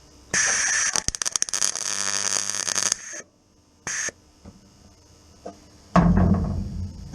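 MIG welder plug-welding thin steel: a crackling, hissing burst of about three seconds, then a short second burst about a second later. Music with drum hits comes in near the end.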